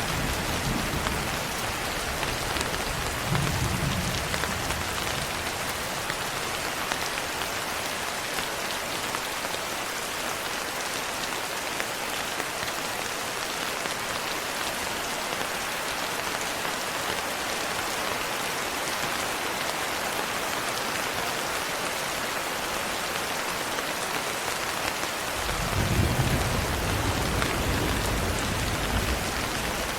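Steady heavy rain, with low rolling thunder rumbling in the first few seconds and again from about five seconds before the end.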